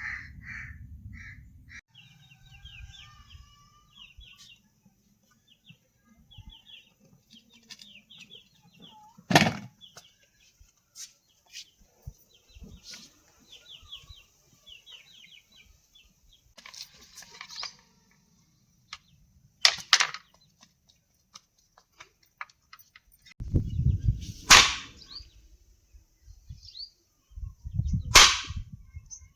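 Four sharp, loud knocks spaced several seconds apart, with birds chirping faintly in quick runs between them.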